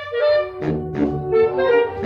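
Clarinet playing a melody in held notes over a lower brass-like accompaniment.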